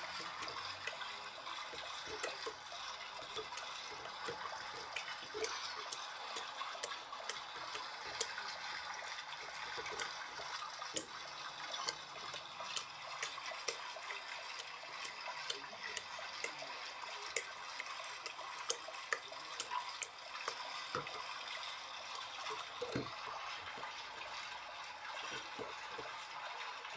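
Water running and splashing inside an LG washing machine on its rinse cycle: a steady hiss of water with many small splashes and drips scattered through it.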